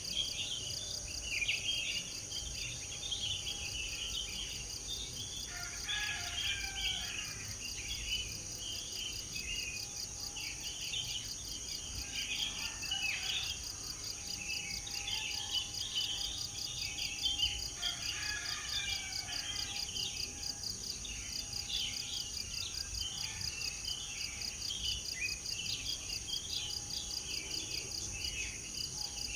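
Many small birds chirping and twittering over a steady, high, rapidly pulsing insect trill.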